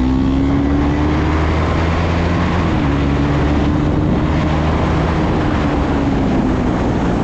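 KTM Duke 390's single-cylinder engine running at a steady cruise, its pitch dipping briefly about three seconds in, over a constant rush of wind.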